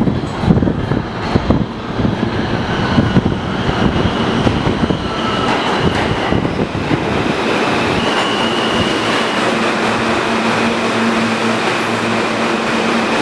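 R160 subway train moving along the platform: its wheels clack rapidly over rail joints for the first few seconds, then settle into a steady rumble with a high whine and a low hum from about eight seconds in.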